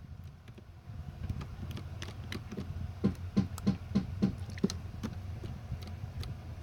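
Jiggly slime being squeezed and poked by hand: a series of small wet clicks and pops, quickening to about three a second midway, over a low steady hum.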